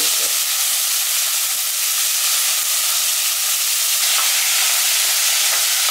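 Freshly added soaked green peas, with onion and tomato, sizzling in hot oil in an aluminium pressure cooker: a steady frying hiss.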